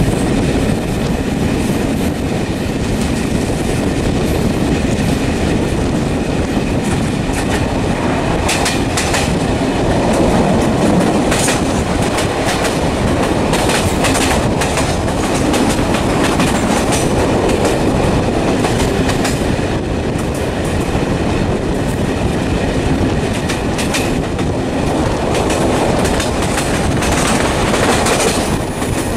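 Steady, loud rumbling noise with sharp clicks scattered irregularly through it.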